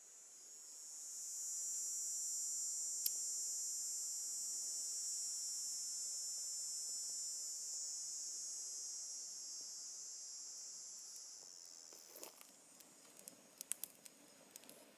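A cicada buzzing: a high, even drone that swells over the first couple of seconds, holds, and fades away about twelve seconds in. A few sharp clicks follow near the end.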